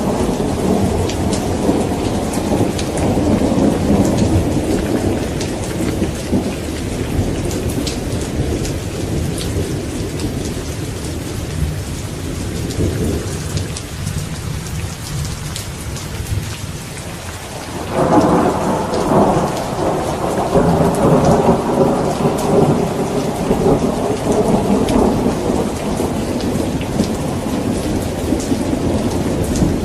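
Steady rain with rolling thunder. The rumble dies down through the middle, then a fresh thunderclap comes in suddenly about eighteen seconds in and keeps rumbling.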